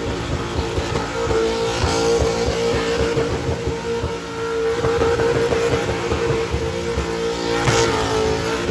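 Burnout: a car's engine held at steady high revs while its tyres spin on the pad.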